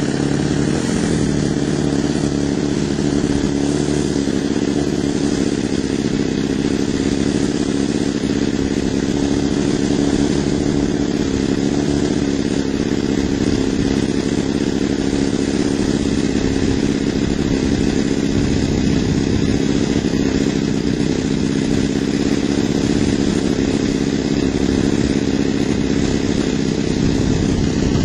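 Model airplane engine running steadily at low throttle during a radio range check, its carburettor needle valves set 1.5 turns open on both ends before tuning.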